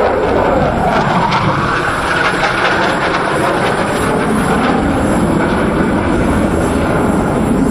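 Military jet aircraft flying a display, its engine noise a loud, steady rush that slowly shifts in pitch as it passes.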